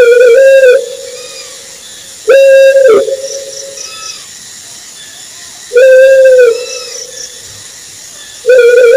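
An owl hooting: four even-pitched hoots of under a second each, about three seconds apart, over a steady hiss with faint high chirps in the background.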